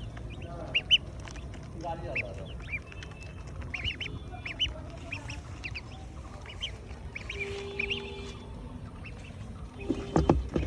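Poultry calling: many short, high peeps repeated irregularly, with a few lower duck-like calls among them. Several knocks come near the end.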